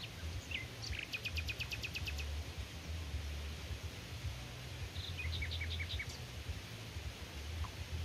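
A songbird singing: a fast trill of about a dozen short, evenly spaced high notes about a second in, then a shorter phrase of quick notes around five seconds in, over a steady low rumble.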